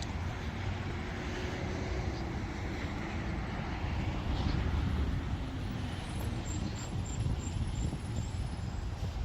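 Road traffic passing: a steady rush of vehicles, a little louder about four to five seconds in.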